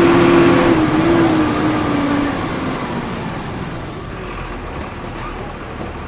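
Volkswagen 17.230 EOD city bus engine running at steady high revs. About a second in, the revs waver and fall away as the engine comes off load, and the sound eases over the next few seconds into a lower rumble.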